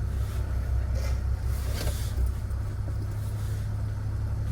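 Straight-piped, catless BMW 540i's B58 turbocharged inline-six running steadily at low revs, a constant low drone heard from inside the cabin. A couple of brief hissy noises come over it about one and two seconds in.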